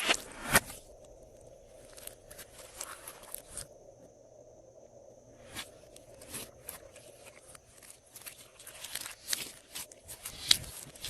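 Glossy slime being squished and mixed by hand: irregular sticky clicks, pops and crackles, with a lull in the middle.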